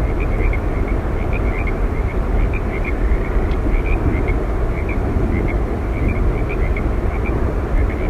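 Steady roar of Yosemite Falls, the water falling and crashing without a break, with small short chirps sounding high above it again and again.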